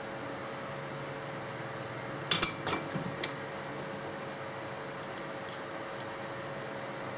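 A quick cluster of clinks and clatter from small hard objects being handled, about two seconds in, then a few faint ticks, over a steady hiss with a faint hum.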